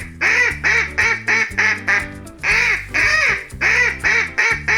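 Duck quacking in quick runs of short quacks, with a brief pause about two seconds in, over cheerful background music.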